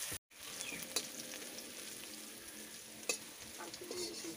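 Potato pieces sizzling in hot oil in an iron kadai, with a metal spatula clicking against the pan a couple of times. The sound drops out briefly just after the start.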